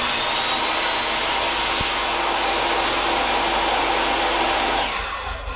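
An electric power tool's motor running steadily at full speed, then switched off and spinning down, its whine falling away near the end.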